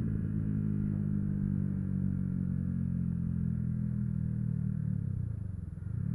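Yamaha YZF-R125's single-cylinder four-stroke engine running at steady riding revs. Near the end the revs dip briefly, then pick up again.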